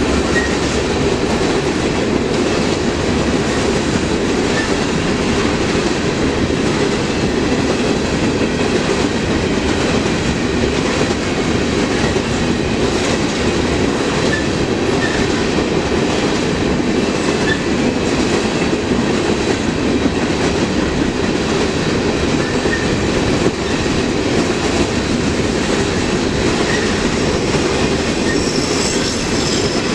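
Railroad cars rolling past: a steady rumble of steel wheels on rail, with repeated clicking as the wheels cross rail joints.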